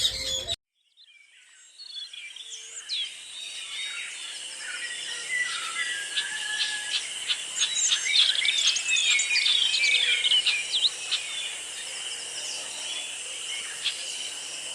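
A flock of small parrots and parakeets chirping and squawking in an aviary: many short overlapping calls, thickest in the middle. The calls fade in after a brief silence about half a second in, over a steady high-pitched drone.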